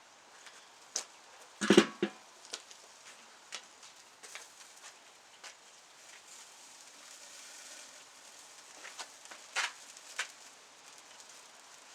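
Wood campfire crackling with scattered sharp pops and a faint hiss, under pork belly slices grilling over it. A louder knock and burst of crackles comes about two seconds in, and a few more sharp pops near the end.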